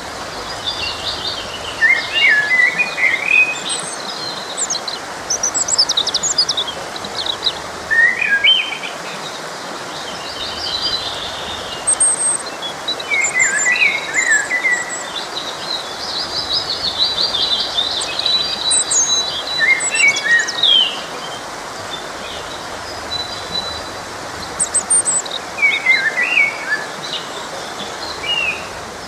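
Several songbirds singing and chirping in short, overlapping phrases over the steady rush of a forest stream.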